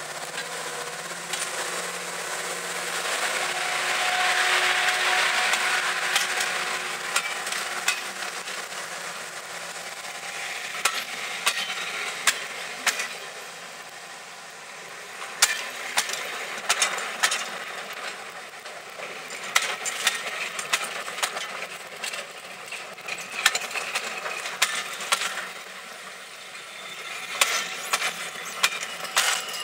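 Passenger coaches of a diesel-hauled train rolling past close by, their wheels clicking and knocking over the rail joints in irregular sharp beats. Under it runs the steady rush of the moving train. A low engine note fades out by about eight seconds in.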